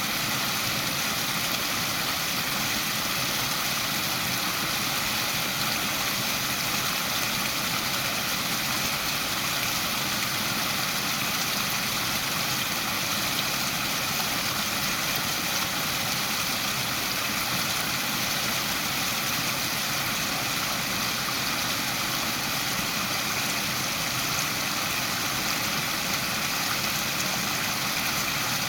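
Waterfall: water falling and rushing in a constant, even roar with no breaks or changes.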